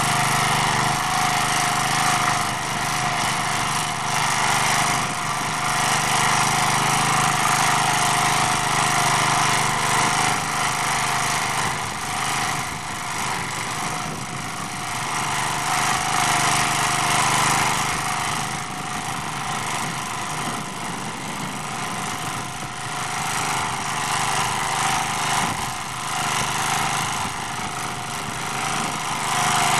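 MD3 walk-behind tractor's small engine running steadily while its rotary tiller churns garden soil in first gear; the engine's loudness swells and dips slightly as it works.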